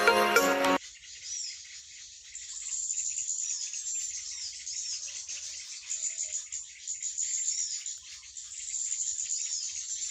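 Birds chirping and calling, many short high calls overlapping continuously, after a brief end of music just under a second in.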